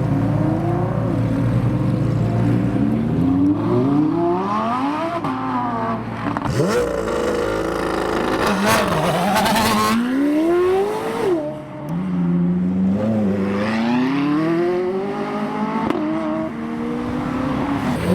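High-performance car engines revving hard while accelerating away. The pitch climbs and falls back again and again as the gears change, with a harsher burst about halfway through.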